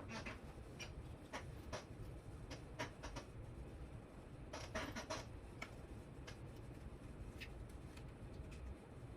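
Light, scattered clicks and scratching of small parts and cables being handled on a workbench, with a short cluster of clicks about halfway through.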